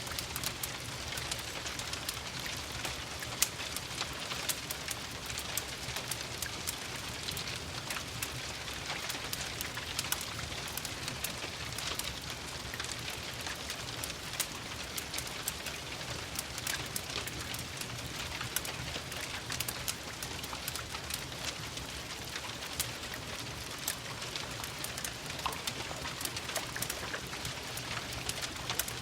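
Steady rain mixed with a crackling wood fire: an even hiss of rain with frequent small sharp pops and ticks scattered through it.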